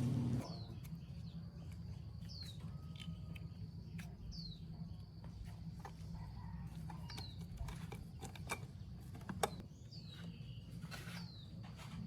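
A bird calling with short, high, falling chirps every couple of seconds over a faint, steady low hum, with a few light clicks and one sharper tap late on.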